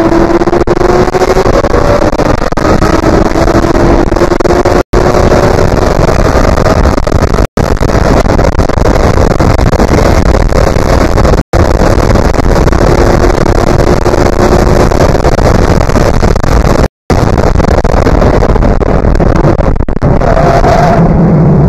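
Ariel Atom's engine running hard at high revs, heard through the onboard camera's open-cockpit microphone with heavy wind noise; the engine note climbs in pitch over the first few seconds. The audio cuts out completely four times for a split second, and near the end the engine note drops low.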